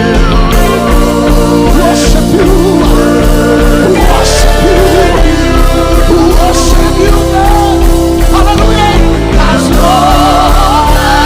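Live gospel worship band music: sustained chords with a wavering melody line over them, and a few cymbal-like crashes.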